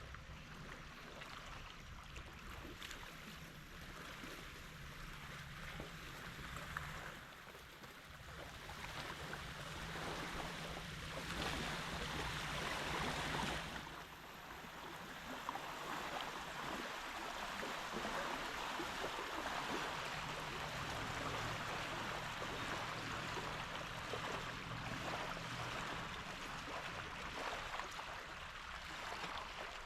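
Lake water lapping at the bank: a steady wash of noise that grows louder about 11 to 14 seconds in.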